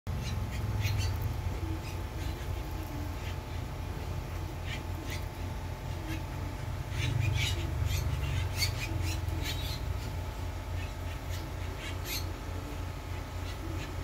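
Birds calling in short, sharp chirps, scattered at first and coming thick and fast about halfway through, over a steady low rumble.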